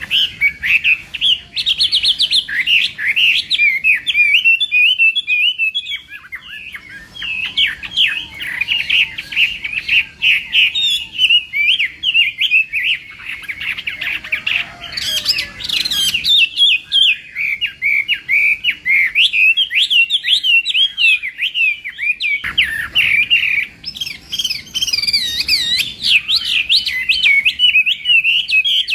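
Chinese hwamei singing a long, fast, varied song of sweeping whistled notes, with only brief breaks between runs.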